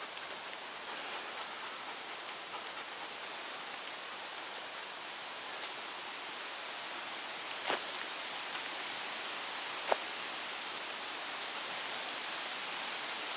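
Steady rushing hiss of stormy wind through trees and leaves, with two short sharp clicks about eight and ten seconds in.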